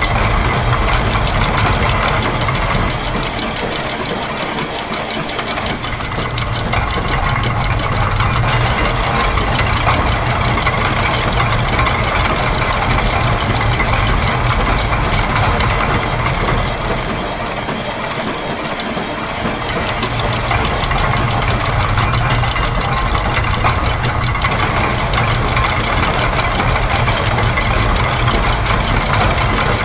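Layered loops of factory machine sounds, gears and ratchets among them, running together as one continuous mechanical din. Some layers drop out briefly and come back, about every sixteen seconds.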